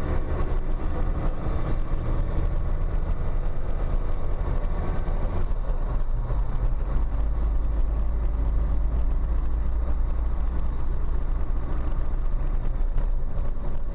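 Car engine and road noise: a steady low rumble whose pitch shifts about five and a half seconds in.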